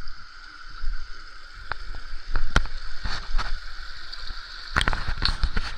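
River water running steadily, with irregular splashes and knocks that come thickest about halfway through and again near the end.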